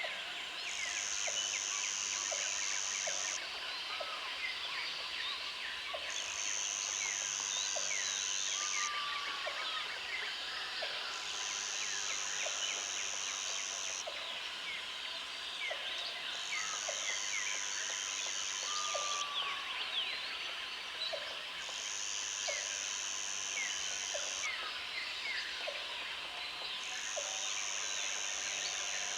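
Rural outdoor ambience: many birds chirping over one another, with a high, buzzing trill that lasts about three seconds and repeats roughly every five seconds. Faint regular ticking sits low underneath.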